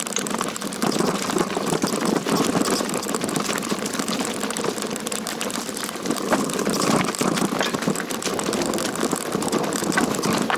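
Bike clattering and rattling over a rocky trail, with a steady rush of tyre and wind noise.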